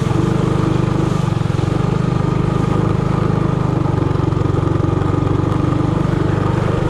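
Trailmaster Hurricane 200X minibike's small single-cylinder engine running at a steady, held throttle while riding.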